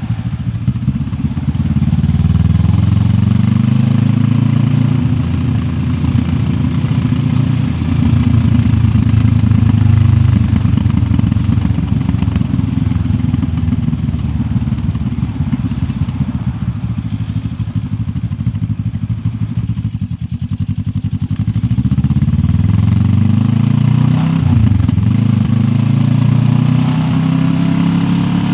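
QJ Motor SRT 700X parallel-twin engine under way, climbing in pitch as the bike accelerates in the first few seconds, then holding a steady drone. About twenty seconds in the throttle eases and the note drops, then it revs up again with a quick gear change near the end.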